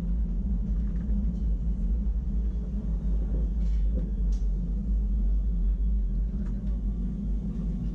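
Wengernalpbahn rack-railway train running, a steady low rumble with a few faint clicks near the middle.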